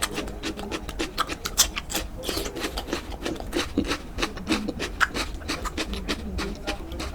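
Close-miked eating sounds: wet chewing and mouth clicks in a quick, irregular run of small smacks.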